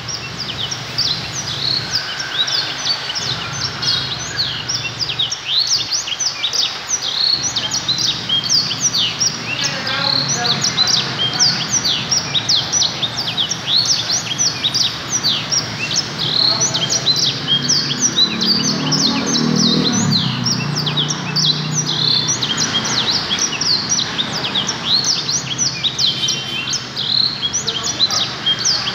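A dense chorus of many small birds chirping: quick, high, overlapping chirps that never pause.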